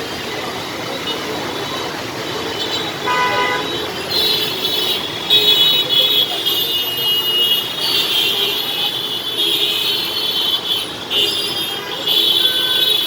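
City street traffic in the rain: a steady hiss of rain and passing vehicles, with repeated honking horns, a short toot about three seconds in and higher-pitched honks through the rest.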